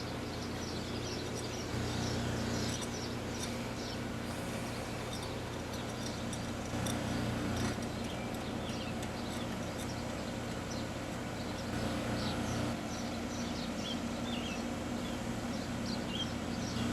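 Outdoor condensing unit of a 4-ton R22 air-conditioning system running with a steady hum, with birds chirping in short calls throughout.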